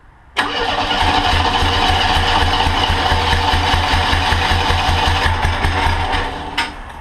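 A monster trike's engine, running on a freshly rebuilt carburetor that is still being set up, bursts into life about half a second in. It runs loud with an even, pulsing beat. Around six seconds in it drops away, and a sharp click follows.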